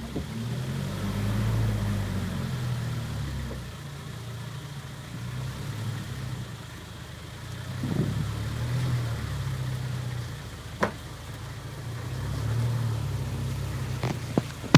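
A motor vehicle's engine running, swelling louder and easing off several times as it is driven, with a few sharp clicks near the end.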